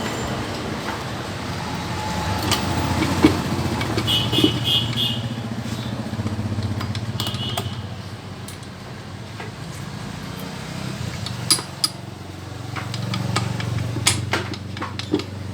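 A motorcycle engine running, its level swelling and easing a couple of times, with scattered sharp metallic clicks and a few brief high squeaks.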